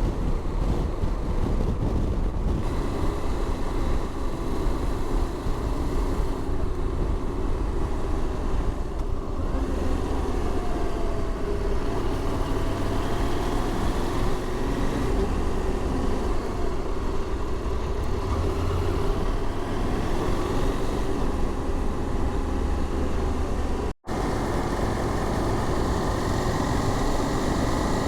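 KTM adventure motorcycle riding at road speed: a steady engine drone mixed with wind and road noise. The sound cuts out for an instant about four seconds before the end.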